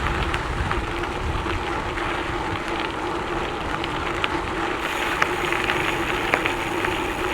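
Trek Checkpoint SL5 gravel bike's tyres rolling fast over loose, sandy gravel: a steady crunching hiss peppered with small stone pops and ticks, over a steady hum.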